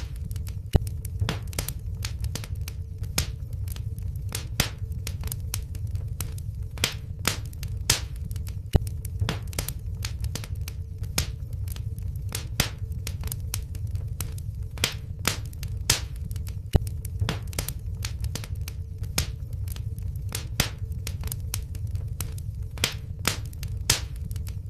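Wood fire crackling in a fireplace: irregular sharp pops and snaps, several a second, over a low steady rumble of the flames, with a faint steady hum underneath.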